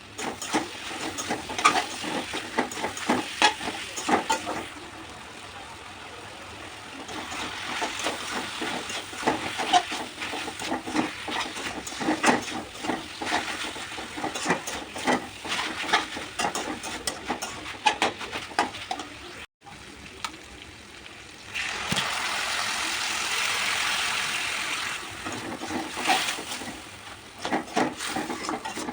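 Food frying in a pan while being stirred: a spoon or spatula clicks and scrapes against the pan over a sizzle. About three-quarters of the way in there is a few seconds of steadier, louder sizzling.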